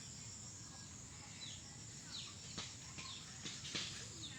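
Birds chirping: short high chirps that fall in pitch, repeating every half second or so over a low steady hum. A few sharp clicks come about two and a half to four seconds in, the loudest near the end.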